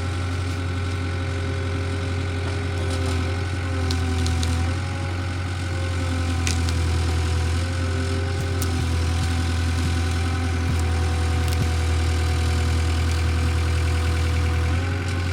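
Engine running steadily at low speed, its pitch dipping and rising slightly a few times, with a few faint clicks and knocks.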